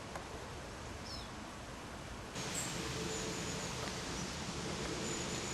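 Faint outdoor background noise by a pond, with one short, high, falling chirp about a second in. The background grows a little louder after about two seconds.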